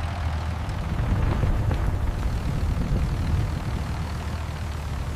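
A vehicle engine running with a steady low rumble and a hiss of noise over it.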